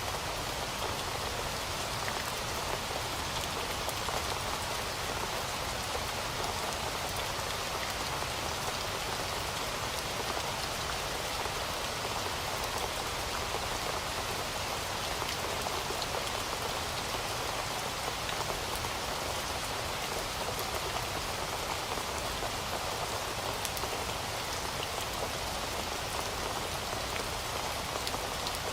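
Heavy rain falling steadily, a dense even hiss with scattered drops pattering on a surface.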